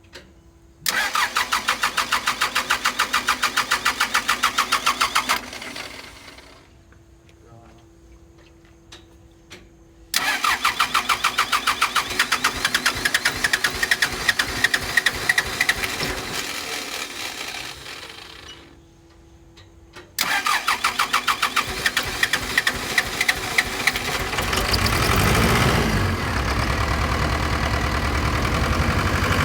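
Pettibone B-66 lift machine's diesel engine being cranked by its starter three times, hard starting after the machine sat under flood water; on the third try it catches about 24 seconds in and keeps running with a rough idle.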